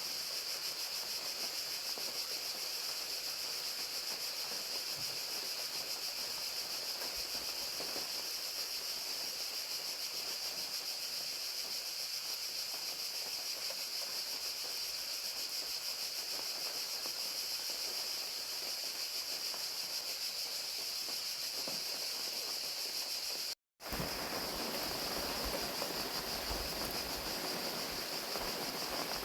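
Crickets trilling steadily in a high, continuous chorus over the even hiss of falling rain. The sound cuts out completely for a split second about 23 seconds in, then resumes.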